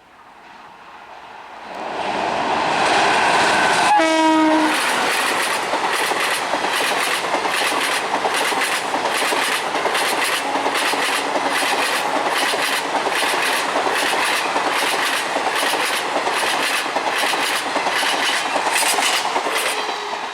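An Indian Railways express train approaches and passes close by at speed. A short blast of its horn sounds about four seconds in, and after that the wheels clatter over the rail joints in a steady rhythm of about two beats a second, beginning to fade at the very end.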